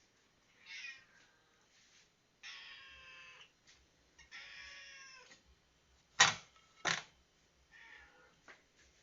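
A domestic cat meowing four times, two of the meows long and drawn-out. Two sharp knocks come about six and seven seconds in and are the loudest sounds.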